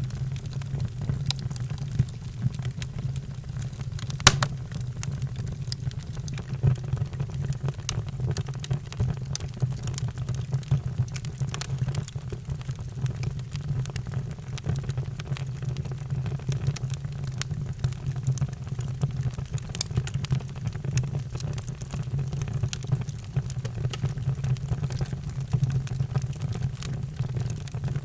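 Fireplace fire crackling and popping in irregular sharp snaps over a steady low rumble, with one louder pop about four seconds in.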